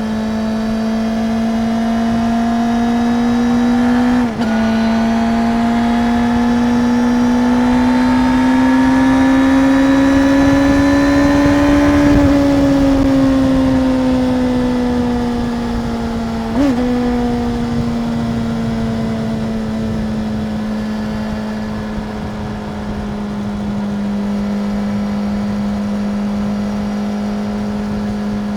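Stock 2025 Suzuki GSX-R 750 inline-four running under way. It climbs in pitch and drops sharply at an upshift about four seconds in, then pulls slowly higher for several seconds. It then eases off and falls in pitch, with a quick blip near the middle of the clip, and settles into a steady cruise.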